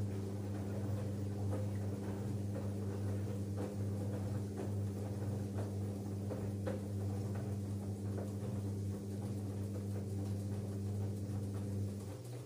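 LG F10B8MD front-loading washing machine running early in its final spin cycle: a steady low hum with scattered light clicks and knocks. Near the end, part of the hum stops and the sound gets quieter.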